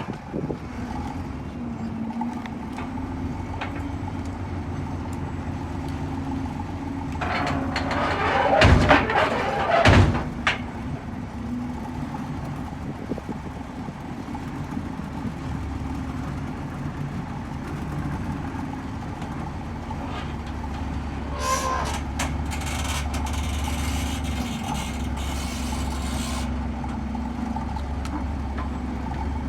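Heavy diesel machinery running steadily. About a third of the way in comes a loud clattering burst with two sharp bangs, and later a hiss lasts about five seconds.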